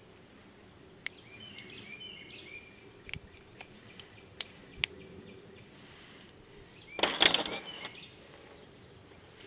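Sharp clicks and clinks of parts and tools being handled, then a louder rattling scrape lasting most of a second about seven seconds in. Small birds chirp faintly in the background.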